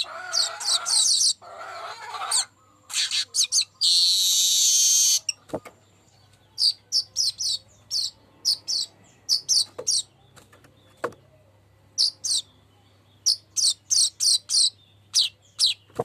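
Weaver bird (manyar) singing. It opens with a rapid chatter, gives a long harsh wheezing buzz about four seconds in, then a long series of short, high, downward-sweeping chips in quick clusters.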